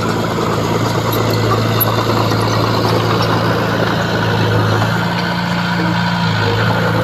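Heavy diesel engine of earthmoving machinery running steadily at an even pitch, with a rough mechanical rumble over it.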